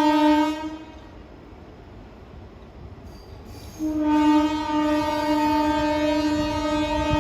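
Indian Railways locomotive horn blowing: a blast that ends about half a second in, then, after a pause of about three seconds, a second long, steady blast, over the low rumble of the train.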